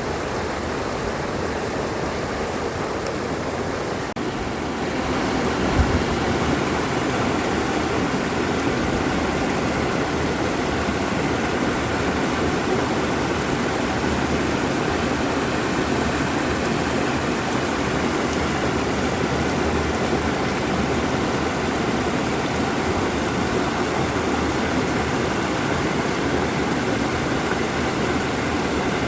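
Mountain valley stream rushing steadily, growing a little louder about five seconds in.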